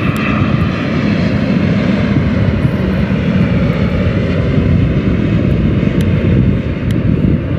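Boeing 787-9 jet engines on final approach, a loud steady rumble with a faint higher whine.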